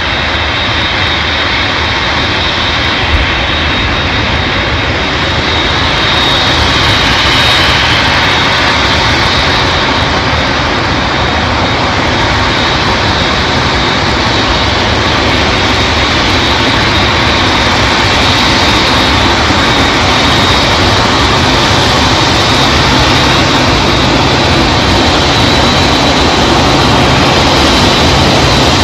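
Boeing 747 freighter's four jet engines running at high power for takeoff: a loud steady rush of engine noise with a thin high whine, growing gradually louder.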